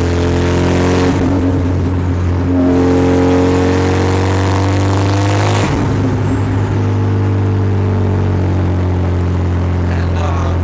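Mitsubishi Lancer Evolution VIII's turbocharged four-cylinder heard from inside the cabin, accelerating with its pitch rising for several seconds. About six seconds in there is a short break with a rush of noise, and then it runs steadily at cruising speed.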